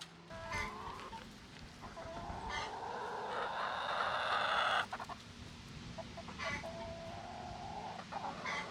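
Backyard chickens clucking, with one long, loud drawn-out call from about two to five seconds in that grows louder and stops abruptly.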